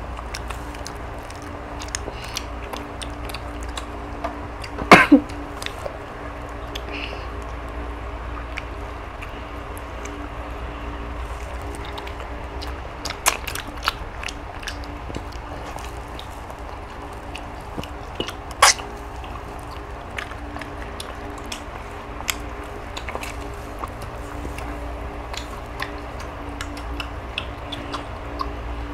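People chewing and biting boiled chicken, with many small scattered clicks and smacks and a few louder sharp sounds, the loudest about five seconds in, over a steady low hum.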